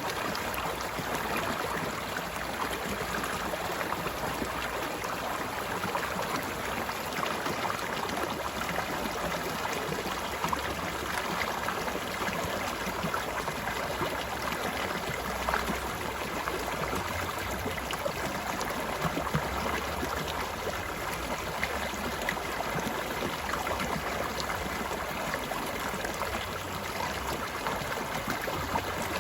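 Mountain stream flowing steadily, a constant babbling rush of water.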